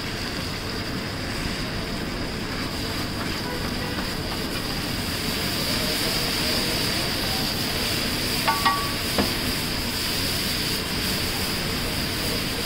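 Chopped green vegetables sizzling in hot oil on a large flat griddle (tawa), a steady frying hiss. A few sharp clicks of a metal scraper on the griddle come about eight and a half seconds in.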